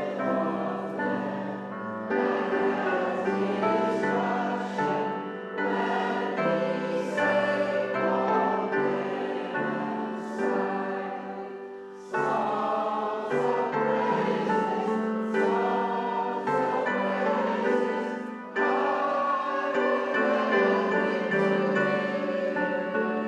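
A hymn sung by many voices together, in long sustained phrases with short breaks about twelve and eighteen seconds in.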